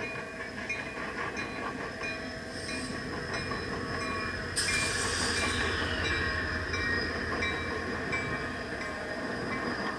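A train running past, its rail cars rumbling steadily. About halfway through, a louder, hissing high-pitched noise starts suddenly and keeps going.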